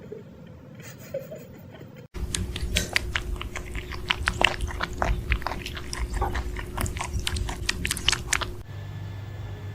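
A pet chewing something hard: a quick, irregular run of crisp crunching clicks that starts suddenly about two seconds in and stops abruptly near the end.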